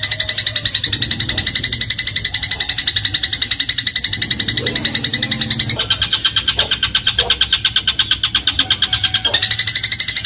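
Eurasian tree sparrow (burung gereja) giving a long, very fast, high-pitched rattling trill. The trill shifts slightly in pitch about six seconds in and shifts back near the end.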